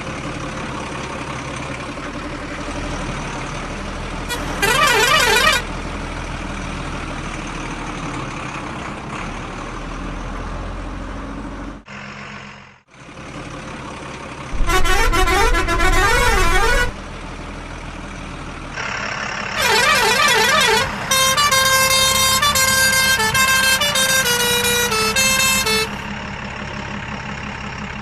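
Truck engine sound running steadily, broken by several short blasts of a warbling horn and, a little past the middle, a horn playing a stepped tune of held notes.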